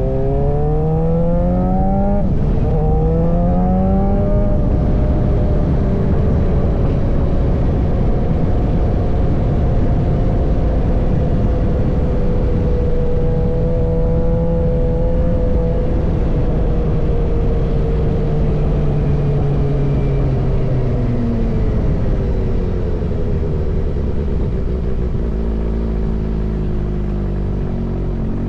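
Suzuki GSX-R inline-four engine through an M4 full-system exhaust, revving up through two gears with a brief drop at the shift about two seconds in, then holding a steady engine speed for a long stretch. Near the end the revs fall away and it settles into a lower steady note.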